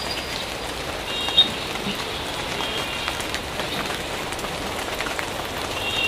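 Heavy rain pouring steadily onto a paved street and its puddles, making an even hiss. A few faint, brief high-pitched tones come and go in the first half.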